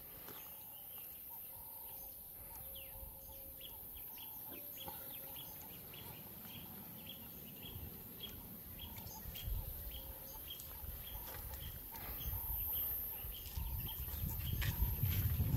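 A bird repeating one short, high chirp about twice a second for several seconds, over a low rumble.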